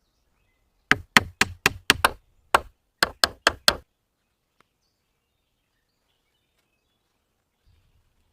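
About ten sharp knocks of a tool striking wood, in two quick runs of about four a second with a single knock between them.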